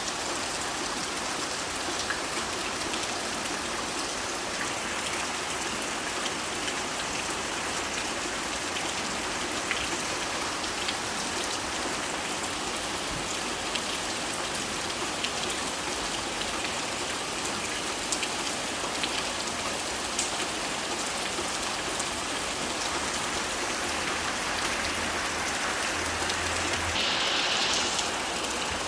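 Steady rain drumming on a tin roof: a dense, even patter of drops with scattered sharper ticks. It swells a little louder near the end.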